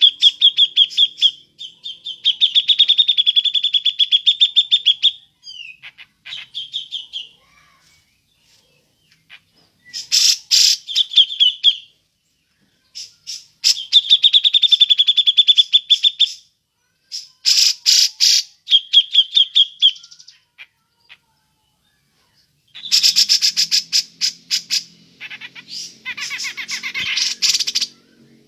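Cucak jenggot (grey-cheeked bulbul) giving its rapid chattering 'ngepik' call: fast trains of sharp ticks, each burst lasting one to a few seconds, repeated with short pauses. A faint low hum sits underneath near the end.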